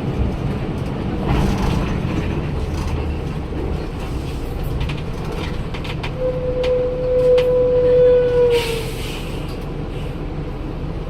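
Daewoo BS106 city bus with its Cummins ISL straight-six diesel running, a steady low drone with light rattles and clicks. From about six seconds in, a strong steady high squeal lasts about two and a half seconds and dips slightly in pitch as it fades.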